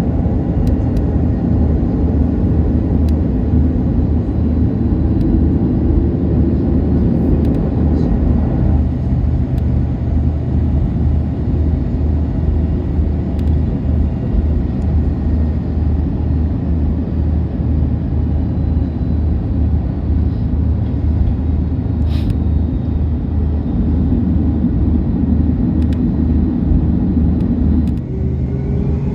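Steady low rumble of an Airbus A330-200's engines and airframe heard inside the cabin, with a change in tone about a third of the way in, a few faint clicks past the middle, and a rising tone near the end.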